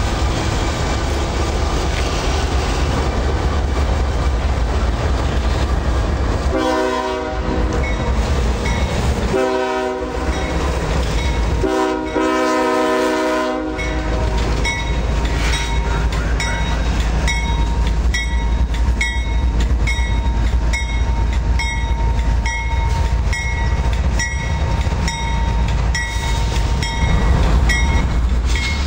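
Diesel freight train running past with a deep steady rumble while its locomotive sounds its multi-chord air horn three times, about a second each for the first two and longer for the third. After the horn, a regular clicking with a ringing edge sets in, about one every 0.7 seconds.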